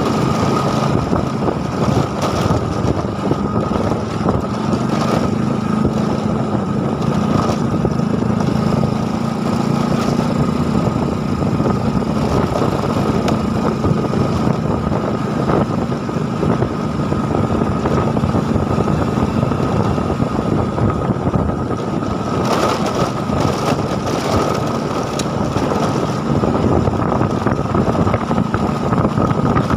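A small engine running steadily at an even pitch, with rushing noise on top.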